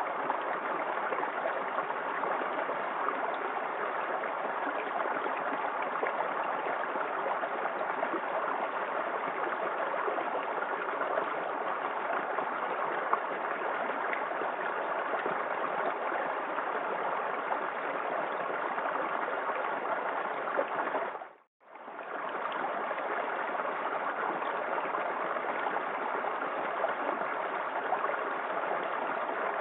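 Small waterfall in a forest creek, water splashing and rushing steadily. About two-thirds of the way in it fades out for a moment and comes straight back.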